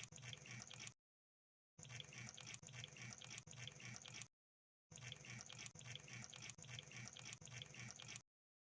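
Faint wet clicking and crackling of a crab, over a low hum, coming in stretches of one to three seconds broken by dead silence; it cuts off near the end.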